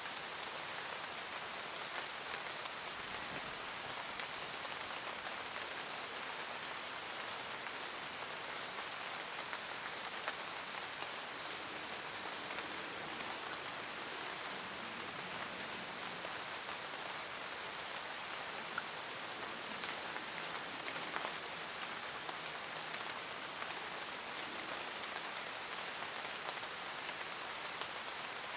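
Steady rain falling in a forest, an even hiss with many individual drops pattering close by.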